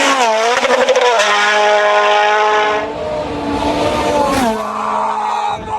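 Rally car engine running hard at high revs. Its note dips and climbs back within the first second, holds steady, then falls away about four and a half seconds in.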